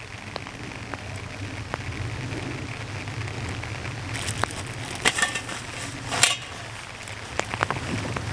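Steady rain falling, with scattered drops tapping. A few short, louder crackling rustles about five and six seconds in.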